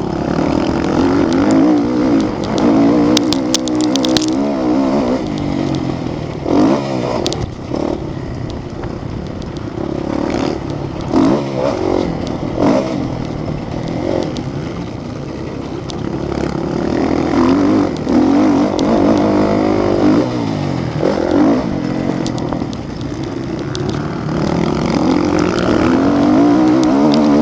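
Motocross motorcycle engines running hard, their revs rising and falling over and over, with a few short clattering clicks.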